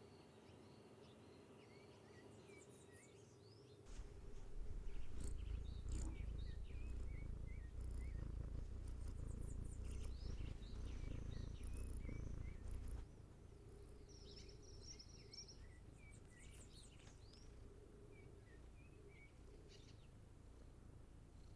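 Small birds chirping in many short, repeated calls, faint throughout. From about four seconds in until about thirteen seconds, a louder low steady rumble runs underneath, then drops away.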